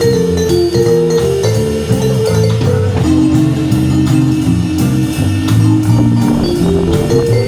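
Live band with keys, drums, bass, guitar and trombone or trumpet playing a swing number, an instrumental passage with held notes over a steady beat.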